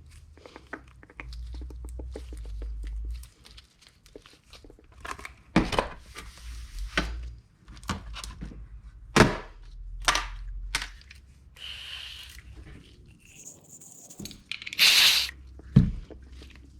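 Small motorcycle parts being handled and cleaned at a workbench: scattered knocks and clicks of parts being set down, rustling and scraping, and a short hiss near the end.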